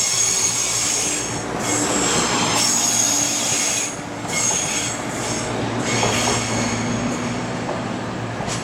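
A passenger train moving slowly through pointwork, its wheels squealing in high-pitched tones that come and go over steady running noise.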